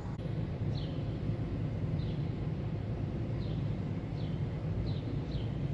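A bird chirping repeatedly, each call a short high note that falls in pitch, coming every half second to second and a half, over a steady low rumble.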